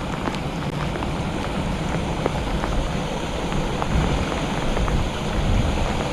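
Steady rain falling, with scattered sharp ticks of individual drops striking close by, over a low rumble of wind on the microphone.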